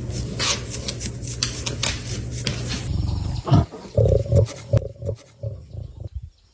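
An animal calling: a low steady rumble for about three seconds, then several short, louder calls.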